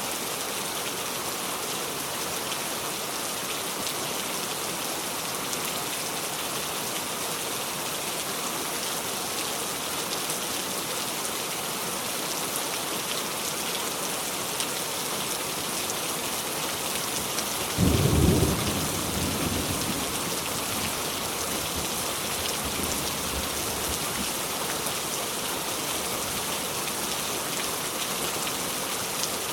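Steady heavy rain falling, an even hiss of many drops. About two-thirds of the way through, a sudden low rumble rises above the rain and fades away over a few seconds.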